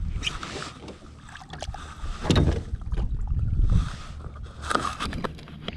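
Water splashing and knocks against a kayak while a caught snook is handled over the side for release. The sound comes in irregular bursts, loudest about two seconds in, again near four seconds and near the end, over a low wind rumble.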